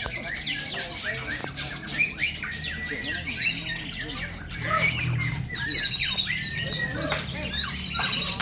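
Several white-rumped shamas singing at once, a dense tangle of whistles, quick chirps and harsh squawks, over a low murmur of background voices.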